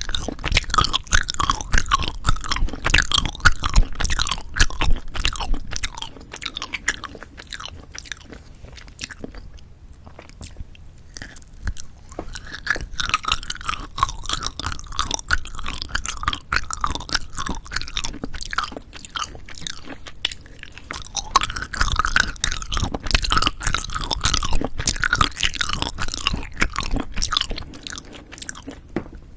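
Close-miked chewing and biting of novelty jelly candies: dense, wet clicking and crackling mouth sounds. It comes in three louder bouts, near the start, around the middle and toward the end, with quieter chewing in between.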